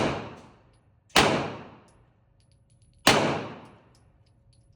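Three single gunshots fired at a slow, uneven pace, about a second and then two seconds apart, each with a long echoing tail.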